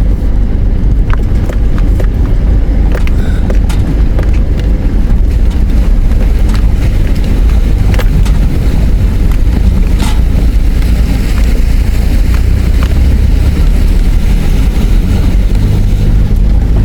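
A four-wheel drive in four-high running along a rough dirt track: a steady low engine and tyre rumble with scattered knocks and rattles as it goes over bumps.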